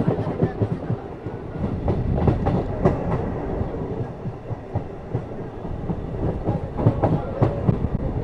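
A DEMU passenger train running along the line, its wheels clattering over the rails in a string of irregular knocks over a steady rumble, heard from an open door of the train.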